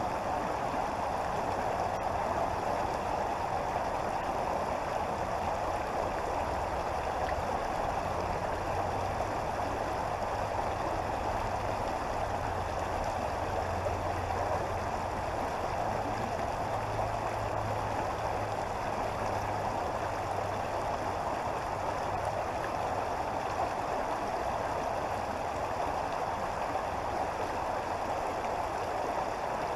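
Creek water flowing in a steady, even rush, with a faint low hum underneath through the middle.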